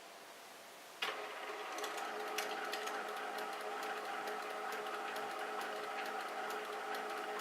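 Canon PIXMA Pro-100 inkjet printer's mechanism starting up suddenly about a second in, then running with a steady whir and scattered ticks. The owner takes it for an automatic print-head cleaning cycle, but is not sure.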